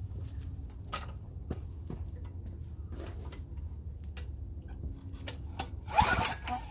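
Murray walk-behind edger's 3.5 hp engine being pull-started without catching: a few light clicks, then a rough rope pull turning the engine over about six seconds in. It fails to start, which the owner puts down to too little fuel.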